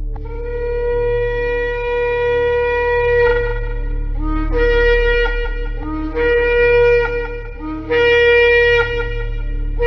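Shofar blasts: a long held note for about three seconds, then a run of short calls switching between a lower and a higher pitch, and another long note near the end, over a steady low hum.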